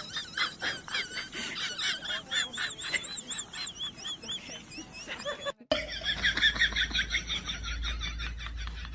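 Many birds calling over one another in a dense, rapid chatter of short high chirps. The sound cuts out for a moment a little past halfway, then another stretch of crowded calling follows.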